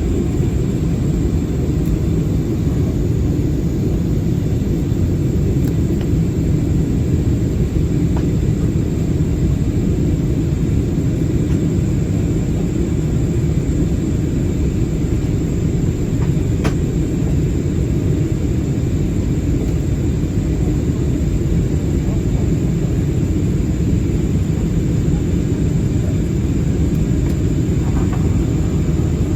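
Steady cabin noise of an Airbus A320-216 in flight, heard from a window seat near the rear: a constant low rumble of the CFM56 engines and airflow, with a faint steady high whine on top.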